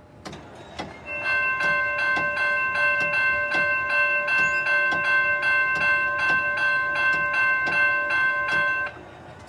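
Railroad crossing bell ringing, struck about twice a second for roughly eight seconds, then stopping abruptly, while the crossing gates are raised. A few sharp clicks come just before it starts.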